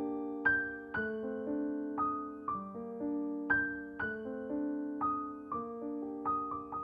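Slow, soft piano music, a new note or chord struck about every half second and left ringing as it fades.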